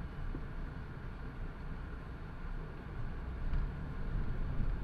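Steady road and engine noise of a car driving, heard from inside the cabin, a low rumble with no impact.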